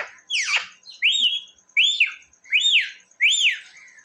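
Ringneck parrot giving a run of short whistled calls, each rising then falling in pitch, about six in quick even succession.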